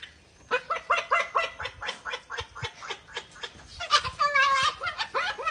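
A bird giving a rapid run of short, laugh-like cackling calls, about four or five a second, with one longer held note about four seconds in.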